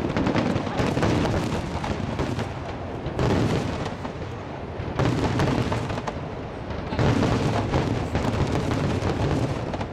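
Starmine fireworks barrage: a dense, continuous run of shell bursts and crackle, with louder surges of booms about every two seconds.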